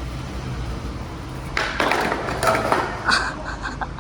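Skateboard wheels rolling on pavement, then about a second and a half in the board pops and clatters through a heelflip attempt, with another sharp hit of the board about a second later.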